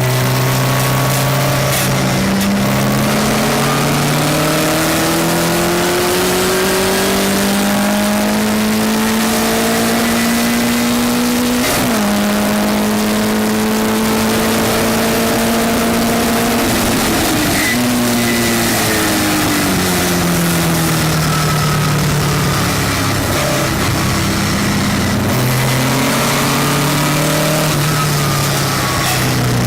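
Onboard sound of a Westfield race car's engine at racing speed. The engine note climbs over the first dozen seconds with brief breaks and holds high. It then drops away for several seconds before climbing again near the end, with a steady rushing hiss of wind and road noise throughout.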